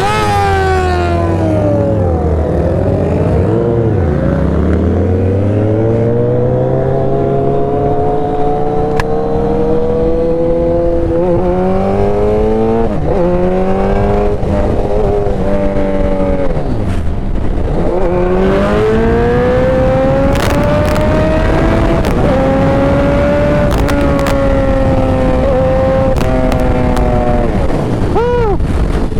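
Motorcycle engine accelerating through the gears: its pitch climbs steadily, then drops sharply at each shift or roll-off, several times over.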